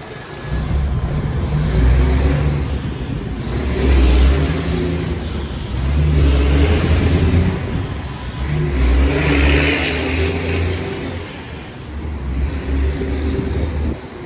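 City street traffic, with vehicles passing in several swells, and gusty wind rumbling on the microphone.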